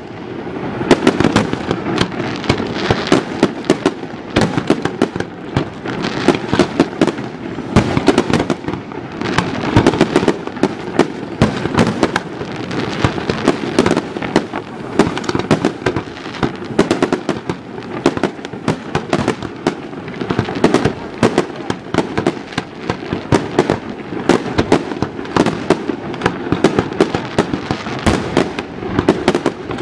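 Fireworks display: a dense, unbroken run of bangs and crackles, with sharper loud reports every second or so.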